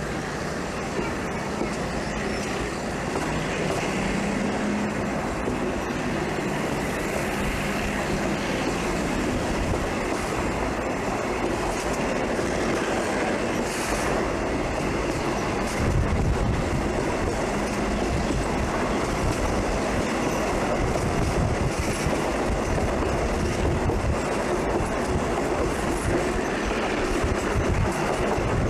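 Tamsui line train running along the track: a steady rumble of wheels and running gear on the rails.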